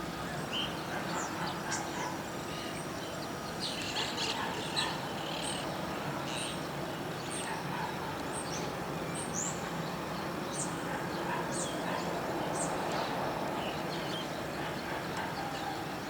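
Birds chirping, with many short, high calls scattered throughout, over a steady background hum of distant outdoor noise.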